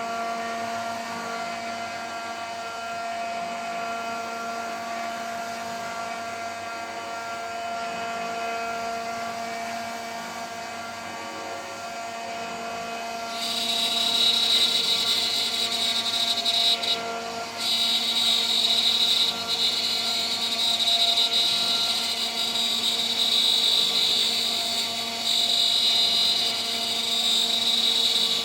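CNC router spindle running with a steady whine. About halfway through, the 3 mm three-flute end mill starts cutting and a loud, high-pitched cutting screech joins in, breaking off briefly a couple of times as the tool moves.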